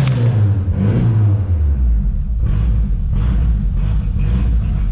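1995 Mitsubishi Eclipse GST's turbocharged 2.0-litre 4G63 four-cylinder engine running rough with a misfire after sitting a long time. The revs fall over the first second and a half, then it settles into a low, uneven run.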